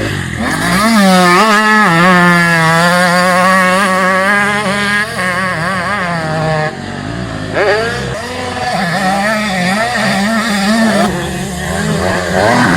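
Motocross bike engine running under throttle, its pitch wavering up and down. The note drops away about seven seconds in, then climbs sharply again as the throttle opens.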